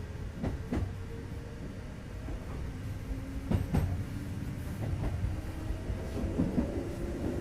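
Kintetsu 2430 series train heard from inside the car while running: a steady low rumble of wheels on rail, with pairs of sharp clicks, a quarter second apart, as the wheels cross rail joints, several times over.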